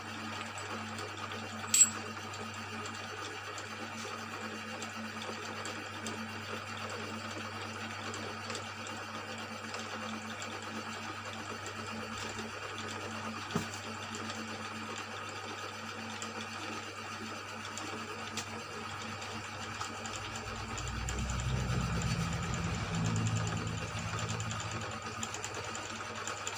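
A workshop electric motor running with a steady hum. There is one sharp click about two seconds in, and a louder, rougher low sound from about twenty to twenty-four seconds.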